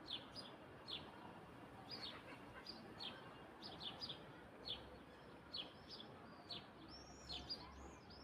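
Birds calling over a faint hiss: one bird gives short, repeated downward chirps about once or twice a second, and near the end a second bird joins with higher, arched notes.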